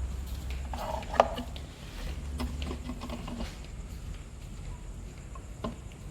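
Light clicks and taps of an LED headlight bulb being handled and turned in its holder, with one sharp click about a second in, over a low steady hum.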